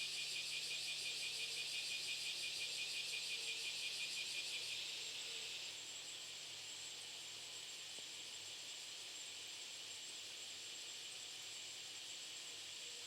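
Insects chirring: a high, pulsing buzz, about four or five pulses a second, that drops away about five seconds in, leaving a steadier, quieter high chirring.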